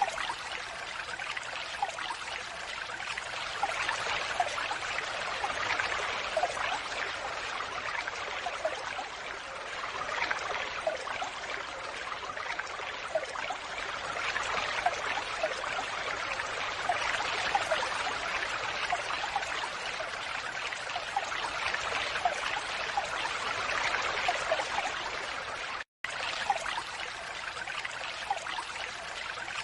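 Falling water rushing and splashing steadily, a continuous wash with small droplet splashes scattered through it. The sound cuts out for an instant near the end, then carries on unchanged.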